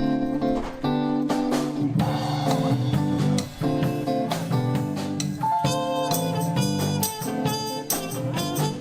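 Live band playing an instrumental passage, with guitar over a drum kit.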